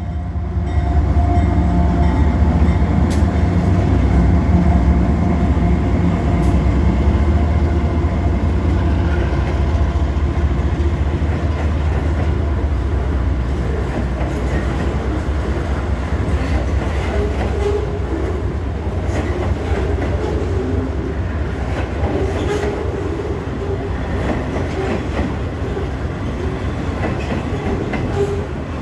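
Freight train passing: the diesel locomotive's engine rumbles by in the first several seconds, then the wagons roll past with steady wheel noise, light clicks over the rail joints and some brief squealing tones.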